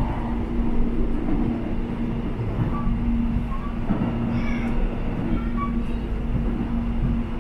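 Electric airport train running: a steady low rumble of the wheels on the rails with a constant droning hum.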